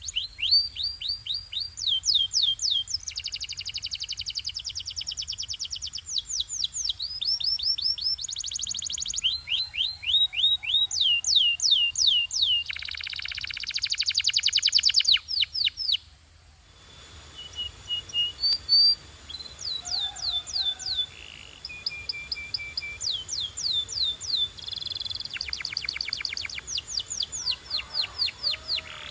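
Domestic canary singing: a long song of fast trills, each made of rapidly repeated sweeping notes, alternating with buzzy rolls. About 16 seconds in the song breaks off abruptly and starts again over a hissier background, as if a second recording is joined on.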